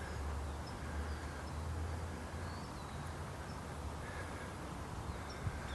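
Outdoor ambience: faint, short bird chirps and calls every second or so over a low steady rumble.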